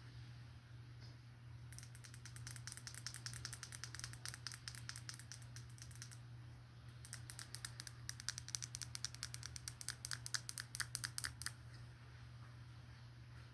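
Rapid, crisp tapping or clicking, many strokes a second, in two runs of about four seconds each with a short pause between them.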